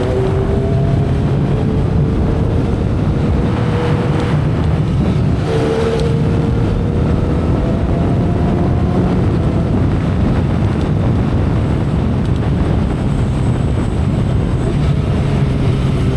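2012 Kawasaki Ninja ZX-10R inline-four engine and exhaust at expressway cruising speed, its note climbing slowly in pitch as the bike gathers speed. Heavy wind rush on the helmet-side camera microphone runs under it.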